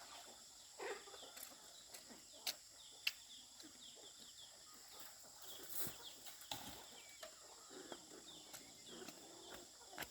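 Faint clucking of chickens, with a few sharp clicks, the loudest about two and a half and three seconds in.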